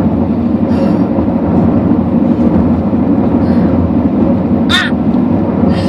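Steady road and engine noise inside a moving car's cabin, with one short, high cry of pain from a passenger almost five seconds in.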